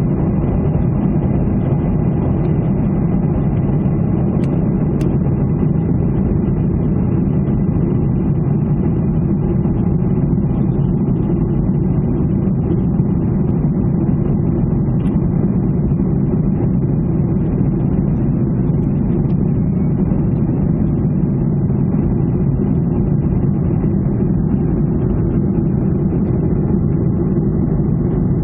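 Steady drone of a Ryanair airliner's jet engines and rushing air, heard from inside the passenger cabin, with a thin steady high whine; the level does not change.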